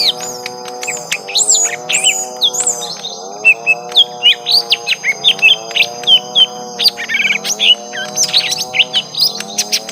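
Young lesser green leafbirds giving rapid, excited fighting calls: a dense run of sharp chirps and short whistled notes, one after another. Underneath, a lower sound rises and falls about every one and a half to two seconds.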